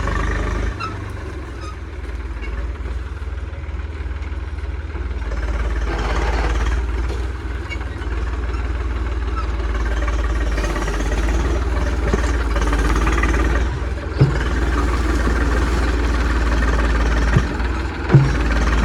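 Tractor diesel engine running steadily, a continuous low rumble, with two short knocks, one about fourteen seconds in and one near the end.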